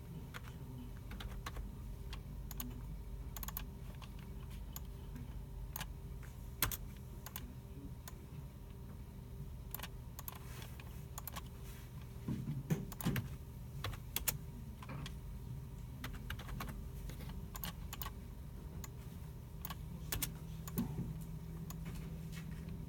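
Computer keyboards being typed on and mice clicked, with scattered, irregular key clicks over a steady low hum. About halfway through comes a short cluster of louder, duller knocks.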